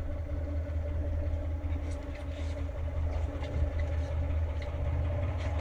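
Dhoni's engine running steadily, an even low drone, with a few faint knocks.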